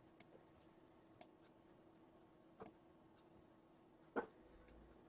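Near silence: room tone with a faint steady hum and four faint, sparse clicks from a computer mouse or keyboard being worked, about a second or more apart.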